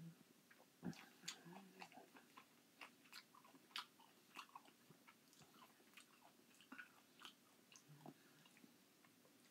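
Close-up chewing and mouth smacking of canned crushed pineapple eaten by the spoonful: many irregular sharp smacks and clicks, with a couple of short low hums.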